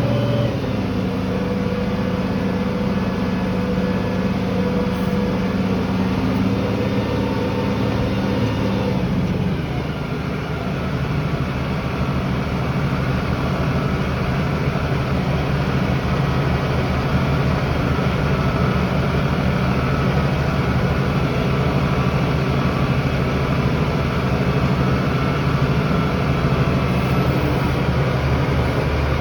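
Tractor engine running steadily while pulling a tillage implement through the field; its note shifts about a third of the way through, then runs steady again.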